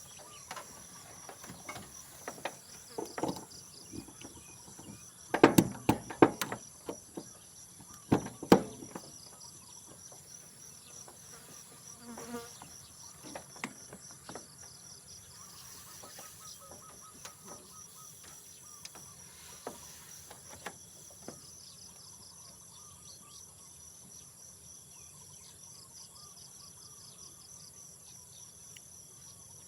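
Insects calling, a steady high-pitched pulsing chorus. A cluster of sharp knocks and clatter, the loudest sounds, comes about three to nine seconds in, with a few lighter taps after.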